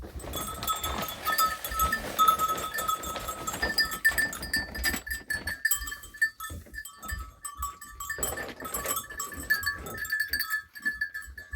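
A flock of sheep and goats bleating, several animals calling over one another.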